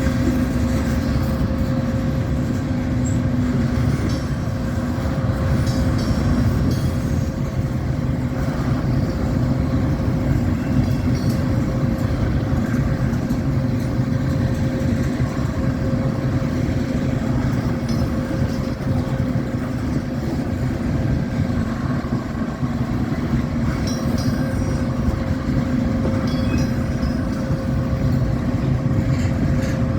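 Steady low rumble of a vehicle running, with a constant hum held at one pitch.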